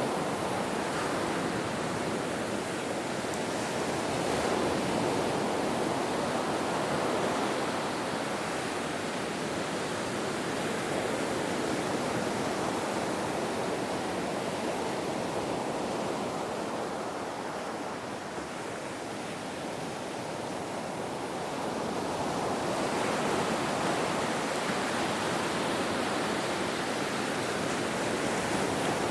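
Ocean surf: a steady wash of breaking waves that eases for a few seconds past the middle, then builds again.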